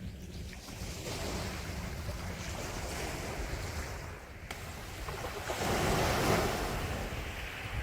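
Sea waves washing onto the shore, one wave breaking louder about six seconds in, over a low steady rumble of surf and wind.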